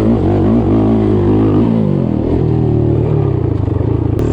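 Off-road single-cylinder engine being ridden, revving up and down quickly through the throttle for the first couple of seconds, then settling to a steadier run with the pitch dropping about three seconds in.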